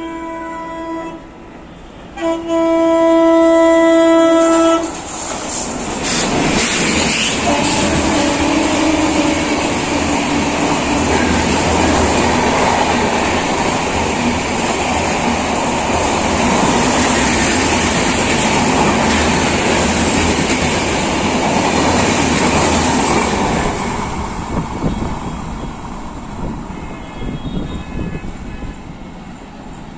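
Indian express train passing a station without stopping. Its horn sounds twice, a short blast and then a longer, louder one. The train then rushes through at speed, with a loud, steady run of wheels over the rails for most of twenty seconds that fades as it moves away.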